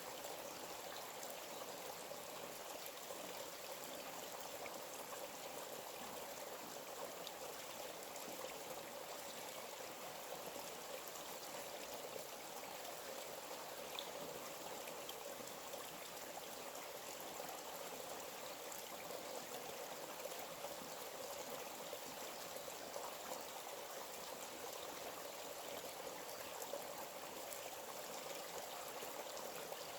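Small forest stream flowing steadily, a constant trickling and rushing of water over rocks.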